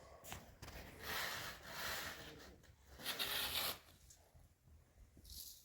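Faint rustling and scraping in a few short bursts, with a few light clicks: something being handled.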